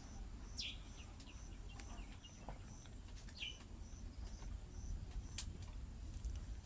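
Birds calling outdoors: two sharp chirps that fall in pitch, over a short high note repeating about twice a second.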